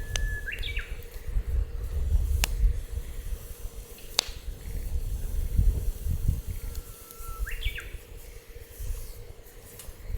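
Wood fire crackling in a steel fire pit, with a few sharp pops over a steady low rumble. Two short whistles, one near the start and one about three quarters of the way through, each hold a tone and then jump up in pitch.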